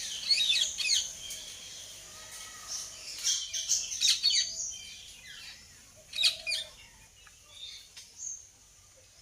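Indian ringneck parakeets calling: clusters of sharp, shrill chirps, loudest in the first two thirds and thinning to a few faint calls near the end.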